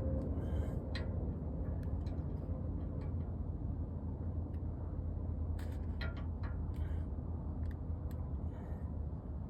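Steady low mechanical drone with scattered light clicks and rattles, a cluster of them about six seconds in.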